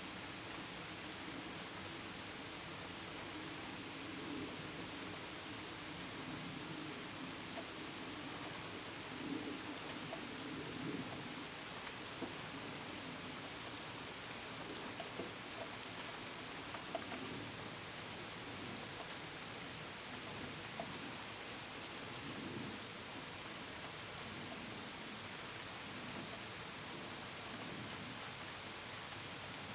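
Steady rain with scattered drops pattering, and crickets chirping in a continuous high pulsing trill. A low rumble runs underneath and is strongest in the first half.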